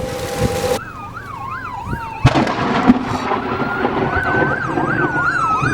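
Wind noise that cuts off abruptly about a second in, giving way to sirens: one yelping quickly up and down, about three sweeps a second, over another slowly rising and falling wail. A single sharp thump comes a little past the middle.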